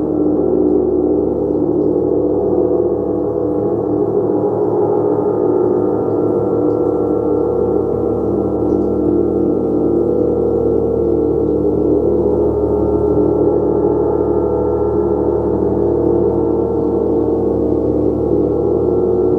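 Gong ringing in a continuous, sustained wash of many overlapping steady tones, strongest in the low-middle range, with no single strike standing out.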